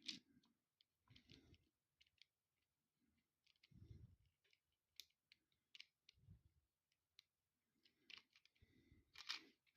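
Near silence broken by faint, scattered clicks and soft knocks of small plastic building bricks being handled and pressed together, with a louder click near the end.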